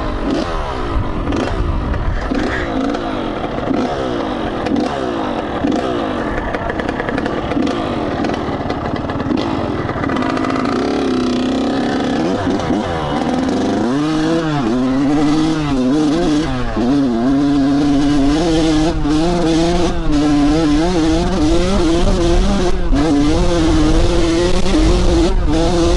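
Dirt bike engine revving up and down through the gears, easing off around ten seconds in, then accelerating hard from about fourteen seconds in and holding at high revs with small rises and falls.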